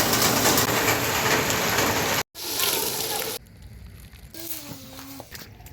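Heavy rain pouring down in a steady rush, cut off briefly about two seconds in and dropping away after about three and a half seconds; a short pitched call is heard in the quieter stretch near the end.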